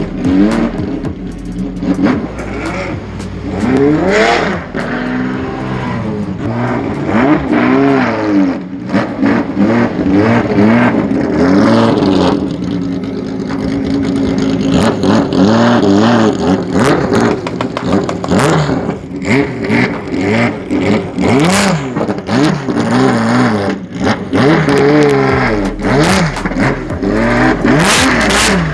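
A car engine being revved again and again, its pitch climbing and falling with each blip of the throttle, with a sharp crack now and then.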